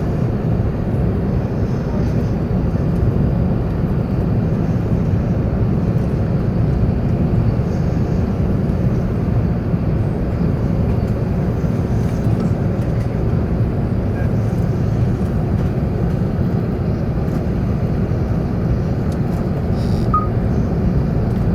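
Steady low rumble of engines and rushing air inside the upper-deck cabin of an Airbus A380 airliner on final approach.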